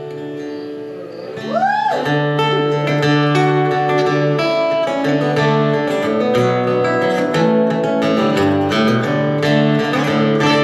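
Instrumental break of a live acoustic country-rock song: acoustic guitar strumming chords under a lead melody line. About a second and a half in, a note bends up and back down, then the playing grows fuller.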